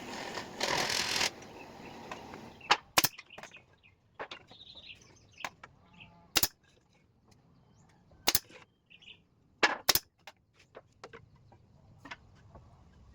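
Sharp, irregular knocks and taps of bird-cage parts being fitted together by hand, about half a dozen loud ones with lighter ticks between, after a short rasping noise at the start.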